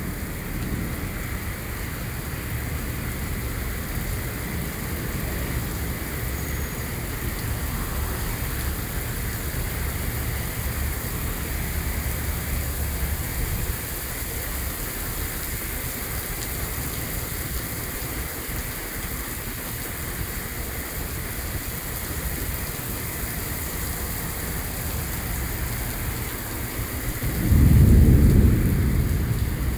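Heavy rain falling steadily, with low thunder rumbling through the first half. A louder, short low rumble of thunder comes near the end.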